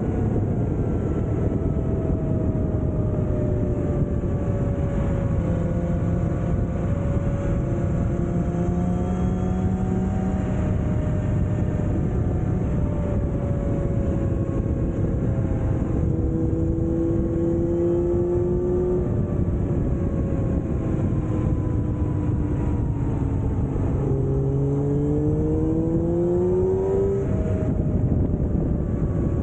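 Kawasaki ZX7R's inline-four engine, fitted with an Akrapovič exhaust, running at slowly changing speed, its pitch drifting down and back up and climbing near the end, under a steady rushing noise.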